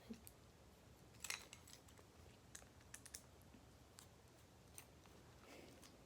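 Near silence broken by a few faint clicks and taps of small parts being handled, the loudest a short cluster about a second in.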